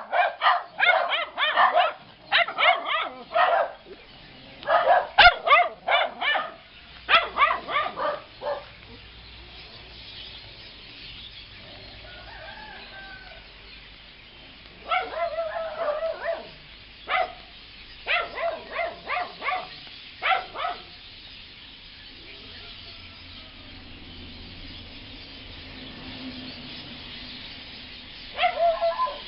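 Dogs barking and birds giving harsh calls, in rapid bursts of short notes. The calls come in a long run at first, stop for several seconds with only faint calls, start again in the middle, and come once more near the end.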